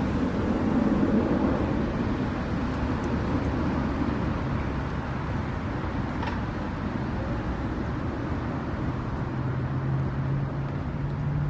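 Boat engine running steadily under wind and water noise, its note rising a little in the last few seconds.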